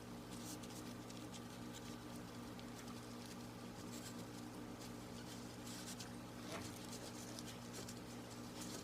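Faint, scattered light clicks and rustles over a steady low hum.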